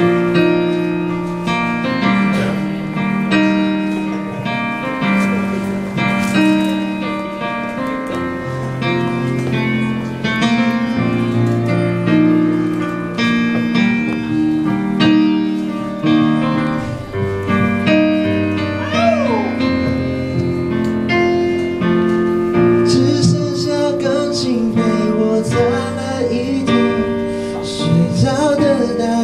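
Instrumental introduction of a slow ballad led by piano, with sustained chords and notes changing every second or so. A voice briefly glides in wordlessly a few times in the second half.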